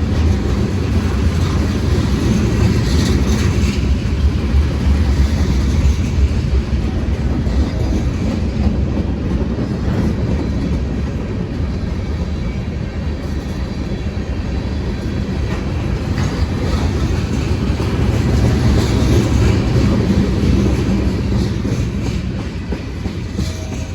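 EMD SD40-2 diesel-electric locomotive's turbocharged two-stroke V16 engine running hard under heavy load as it strains to start a train that is too heavy for it. It is loud and steady, swelling about three-quarters of the way through and easing off slightly near the end.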